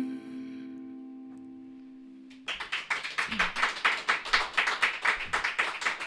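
The song's last chord, with guitar, ringing out and fading away. About two and a half seconds in, a small audience breaks into applause.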